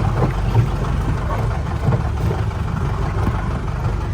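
Mahindra 4x4 jeep engine running steadily on a rough off-road track, with a few short knocks from the vehicle jolting over the ground.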